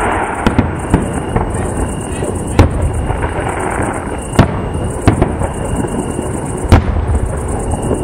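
Fireworks display: aerial shells bursting in sharp bangs every second or two, over a steady crackling rumble.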